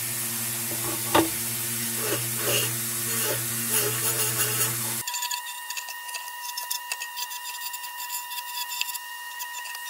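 Electric wire wheel running at steady speed: a motor hum with a hissing brush sound over it, cutting off abruptly about five seconds in. After that comes a quieter, steady high-pitched whine with light ticking.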